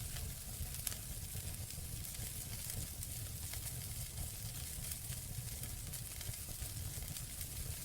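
Campfire burning: a steady hiss with frequent small crackles and pops, one sharper pop about a second in, over a low rumble.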